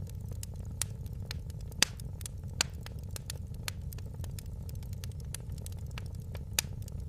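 Wood fire crackling in a fireplace: irregular sharp pops and snaps over a steady low rumble of flame, with a few louder pops about two seconds in and near the end.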